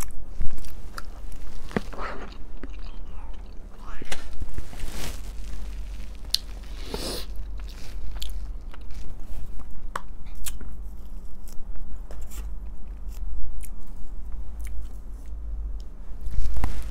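Chewing and wet mouth sounds of someone eating biryani rice and meat, with scattered sharp clicks of a fork against a plastic takeout container.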